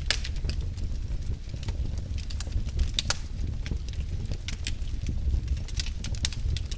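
Wood fire in a fireplace crackling, with sharp irregular pops and snaps over a steady low rumble of the burning logs.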